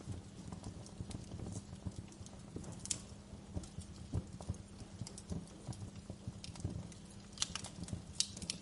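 Wood fire burning in a fireplace: a steady low rumble of flame with irregular crackles and pops, a few sharper snaps standing out near the middle and toward the end.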